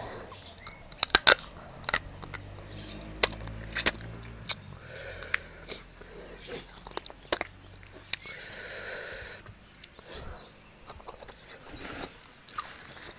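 Close-up chewing and crunching of spicy seafood papaya salad with fresh shrimp and blue crab, with many sharp cracks and clicks and a longer hiss past the middle.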